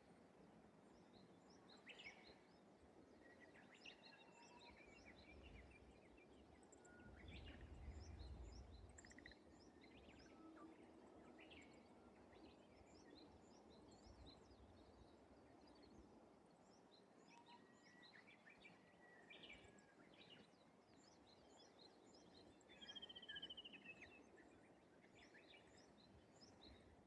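Faint birdsong from several birds: scattered short chirps and call notes over a quiet rural background hiss, with a brief low rumble about seven seconds in.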